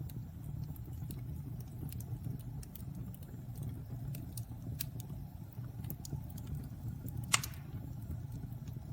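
Wood fire burning in a fireplace: a steady low rumble with scattered crackles, and one sharp pop a little past seven seconds in.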